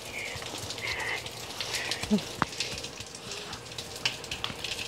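Rain falling on wet pavement and grass, a steady patter with irregular drops ticking throughout.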